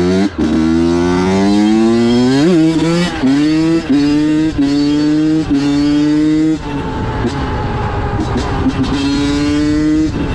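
Honda CR85 two-stroke dirt bike engine pulling hard up through the gears, its pitch climbing in steps with a short dip at each shift. About two thirds of the way in it eases off to a lower, steadier note, then picks up again near the end.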